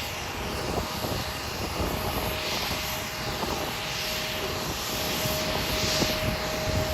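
Jet airliner engines running at an airport: a steady whine over a continuous rumble, the whine growing a little stronger toward the end.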